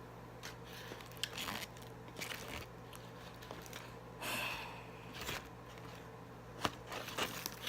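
Mouth sounds of eating Popeyes fried chicken up close: crunching bites and chewing, with scattered crackles and one longer rustle about four seconds in.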